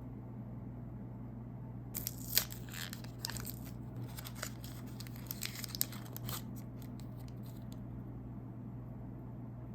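Snack packaging being handled and opened: crisp crinkling and tearing of a wrapper for about four seconds, starting about two seconds in, then a few faint crackles, over a steady low hum.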